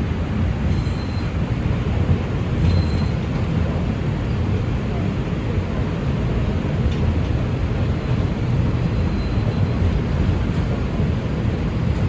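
R142 subway train running between stations, a steady low rumble of wheels on rail, with two brief faint high squeals about one and three seconds in.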